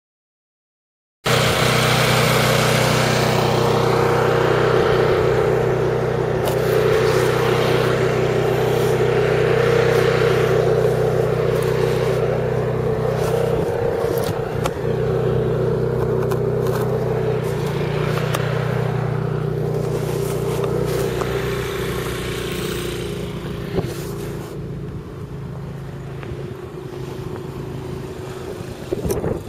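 A motor vehicle engine running steadily close by with a low hum, under a rushing noise that swells and fades several times; it grows gradually quieter over the last several seconds.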